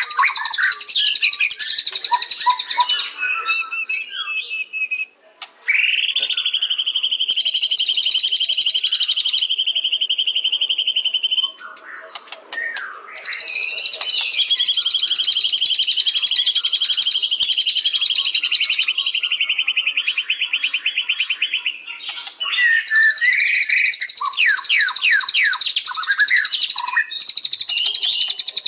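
White-rumped shama (murai batu) singing vigorously. Its song alternates bursts of rapid, high chattering trills with long held whistles, and near the end comes a run of quick down-slurred notes.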